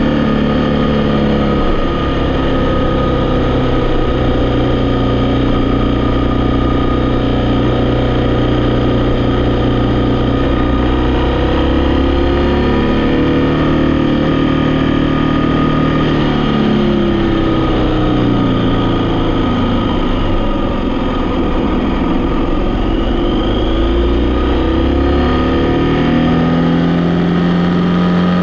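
Vehicle engine running while driving, its pitch falling and rising several times in the second half as engine speed changes.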